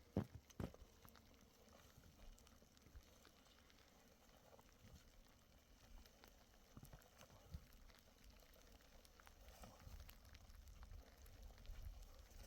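Near silence, with two short knocks about half a second apart at the very start and a few faint ticks after.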